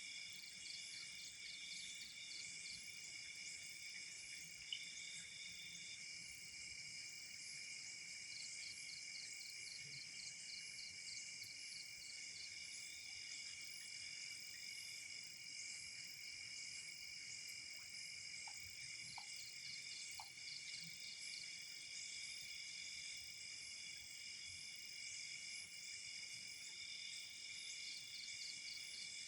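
Night insect chorus of crickets: several steady high-pitched trills at once, with stretches of fast, evenly pulsed chirping that come and go. A single sharp click sounds about five seconds in.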